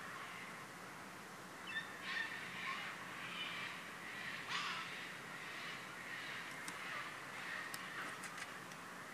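Birds calling outdoors: a series of short calls spread through, over a steady background hiss.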